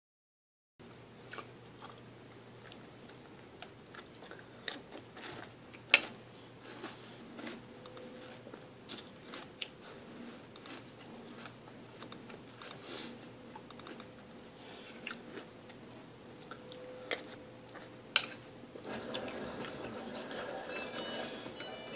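Close-up chewing and crunching of a mouthful of Life cereal, with sharp clinks of the spoon against the bowl, the two loudest about 6 and 18 seconds in. A low steady hum runs underneath, and near the end a louder background sound comes in.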